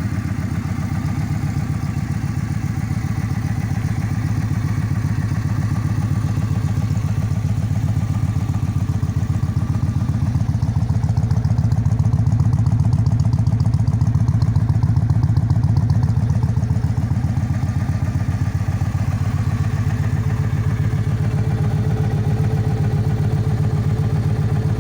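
Yamaha XV1900 Stratoliner's big air-cooled V-twin running at a steady low speed through an aftermarket Freedom Performance exhaust, a deep, even pulsing exhaust note that swells slightly towards the middle.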